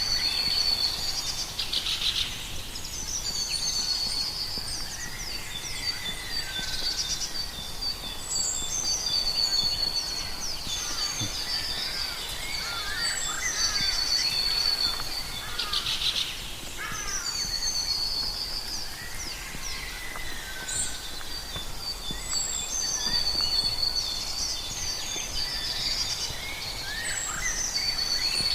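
Several wild birds singing and calling, repeating high, trilled song phrases every few seconds over a steady natural background hiss.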